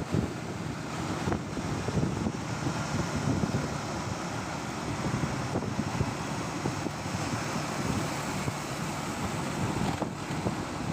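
Steady road noise from a motorbike ride through city traffic: wind rushing over the microphone, mixed with engine and traffic sound.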